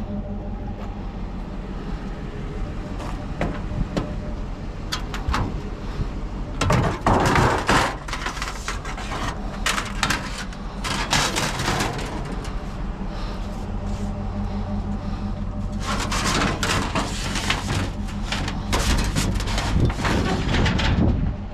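A steady low engine hum, with three spells of knocking and clattering from handled scrap, the busiest near the middle and again in the last few seconds.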